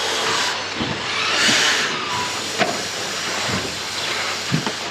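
Brushless electric RC off-road trucks racing on a dirt track: a steady hiss of motors and tyres, swelling for a moment as one passes close, with about five sharp knocks of trucks landing and hitting the track.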